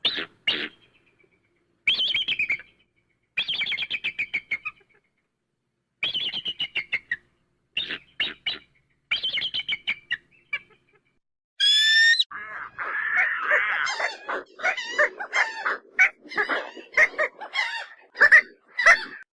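Bird calls: several short, rapid trilling call series, then a brief rising whistle about halfway through, followed by a dense run of overlapping chattering calls.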